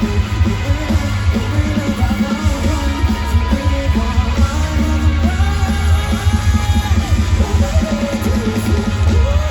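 Live rock band playing loud, with pounding bass and drums, electric guitar and a singing voice.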